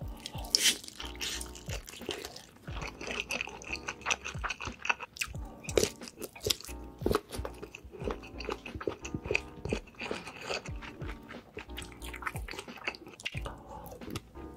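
Close-miked mukbang eating: a person chewing and biting food, with many short crunching clicks, over background music.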